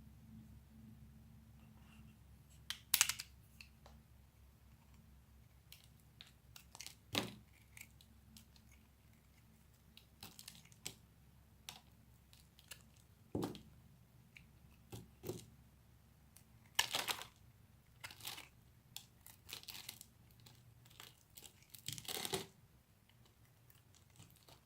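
A knife cutting and carving into a bar of soap: irregular crisp crunching and scraping strokes, spaced a second or more apart, a few of them much louder and longer than the rest.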